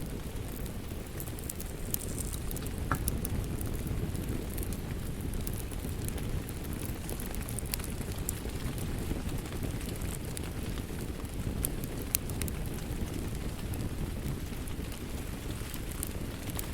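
Wood fire crackling with scattered sharp pops over a steady low rushing of rain.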